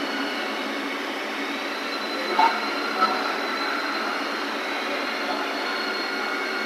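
Hyundai petrol engine idling steadily with a cylinder-2 misfire that the scan tool is counting. Two faint knocks come midway.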